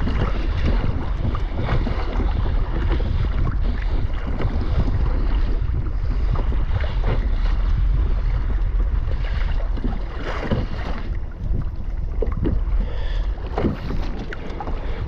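Wind buffeting the microphone, with water splashing and sloshing against a kayak's hull out on open water.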